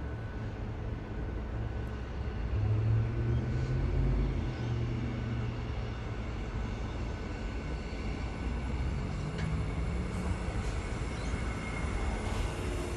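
Train running, a steady low rumble that swells about three seconds in, with a faint high whine coming in near the end.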